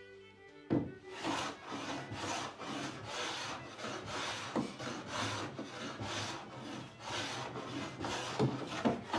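Hand work on a wooden door part: even back-and-forth rubbing strokes, about two a second, like hand sanding or sawing of wood. A sharp knock comes just before the strokes start, and a couple more knocks come near the end.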